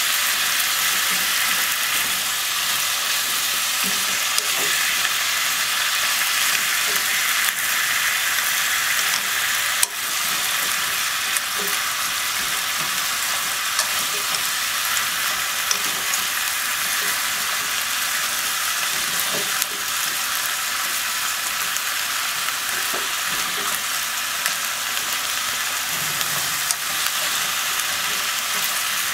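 Sliced pork, onion, potato and konnyaku sizzling in a pot as they are stir-fried: a steady frying hiss, with occasional light ticks of wooden chopsticks turning the food against the pot.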